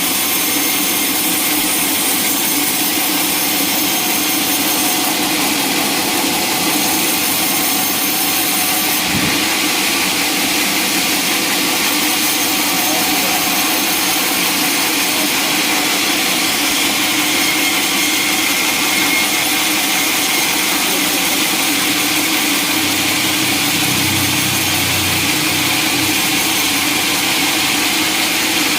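Sawmill saw cutting through a long log: a loud, steady mechanical running noise with a hiss, with a single knock about nine seconds in.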